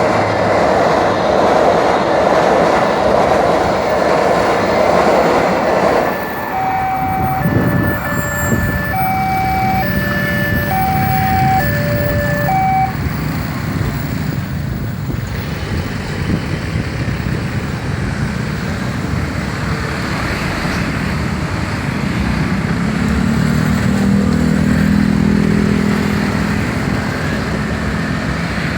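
Train passing through a railway level crossing with a heavy, steady rumble of wheels that stops abruptly about six seconds in. Then an electronic warning tone alternates between two notes for about six seconds, followed by road traffic noise with an engine humming near the end.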